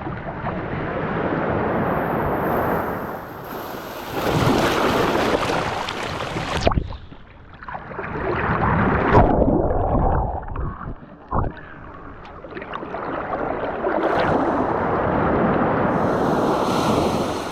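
Surf washing on a beach with wind rushing over the microphone, in surges that rise and fall; the sound breaks off sharply and changes about seven seconds in and again a few seconds later.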